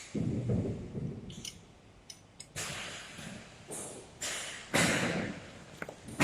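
Hands working small metal parts while fastening a fitting onto an aluminium bar with screws: a series of short scraping rustles, clicks and light knocks.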